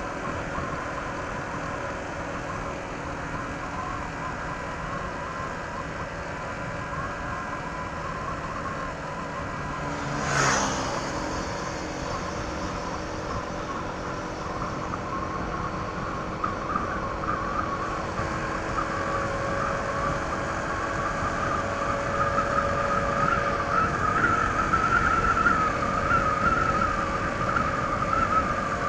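Honda ADV 160 scooter's single-cylinder engine on its stock exhaust, running at road speed under steady wind and road noise. About ten seconds in there is a brief loud rush of sound, and in the second half the engine note climbs and grows louder.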